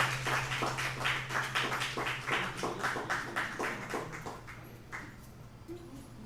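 A small audience clapping, thinning out and dying away about five seconds in, over a steady low hum from the sound system.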